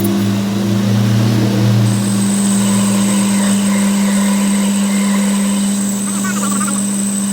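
A machine motor running with a steady low hum, joined about two seconds in by a thin, high steady whine.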